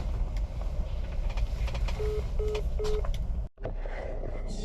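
Steady low rumble of the semi-truck running, with three short, evenly spaced beeps of one pitch about two seconds in, the call-ended tone just after the phone call hangs up. The sound cuts out briefly near the end and the rumble comes back.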